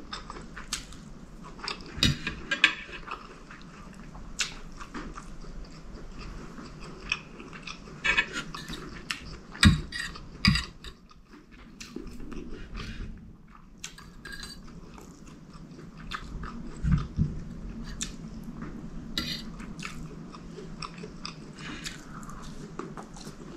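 Close-miked eating of chicken curry and rice: wet chewing and lip smacks with many small mouth clicks. A few louder low thuds come about 2, 10 and 17 seconds in.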